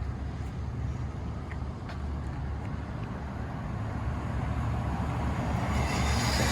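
1960 Triumph Bonneville T120's 650 cc parallel-twin engine running with a steady low pulse, growing a little louder and brighter toward the end.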